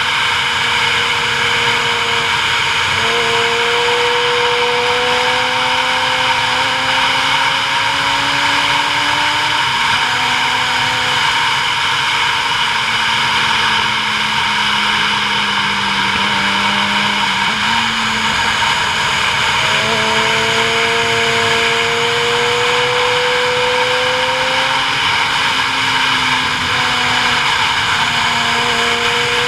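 Vehicle engine running under a steady loud rush of wind and road noise. The engine note climbs slowly for several seconds, drops back, holds low, then climbs again in the second half.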